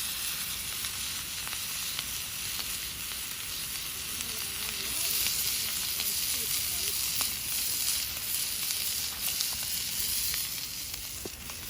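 Steak sizzling steadily in a skillet over a wood fire, a continuous frying hiss with a few faint crackles.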